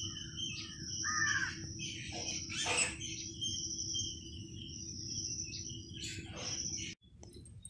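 Birds calling outdoors, a few short harsh calls over high, steady, whistling song, with a low steady hum underneath.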